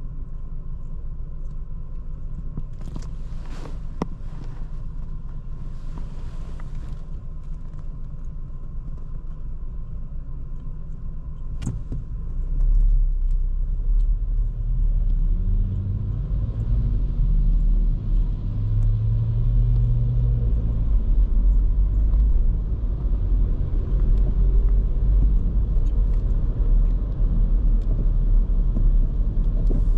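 Škoda Kamiq's 1.0 TSI three-cylinder petrol engine and road noise heard from the driver's seat. A steady low hum for the first twelve seconds, with a sharp click just before it changes. Then the car pulls away, and the engine and tyre rumble grow louder as the engine note rises and falls while it accelerates.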